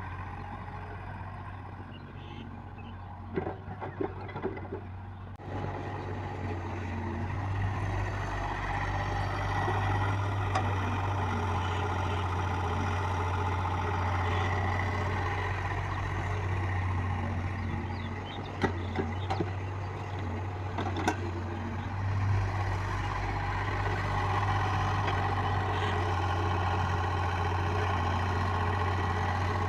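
Heavy diesel engine of earth-moving machinery running steadily, growing louder about six seconds in. A few sharp metallic knocks come about three to five seconds in and again around twenty seconds.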